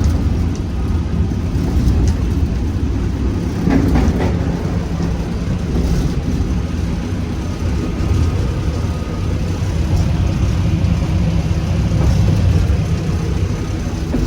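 Class 47 diesel-electric locomotive's twelve-cylinder Sulzer engine running steadily on light power, heard from the cab along with the rumble of the train on the track. A couple of brief knocks come about four and six seconds in.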